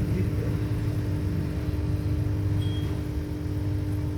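Steady low mechanical hum with a constant pitched tone over a low rumble.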